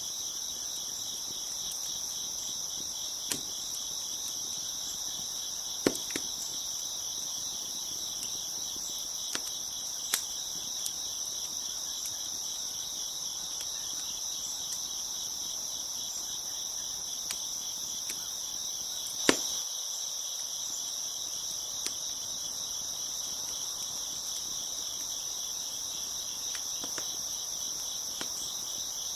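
Crickets chirping in a steady, high chorus, with sharp pops and crackles from a wood fire every few seconds; the loudest pop comes about two-thirds of the way through.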